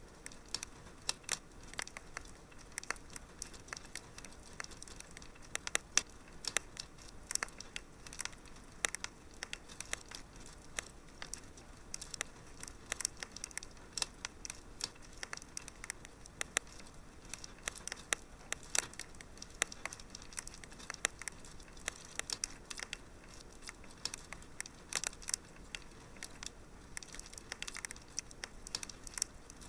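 Wood fire crackling and popping in a fireplace: irregular sharp snaps several times a second over a soft, steady hiss.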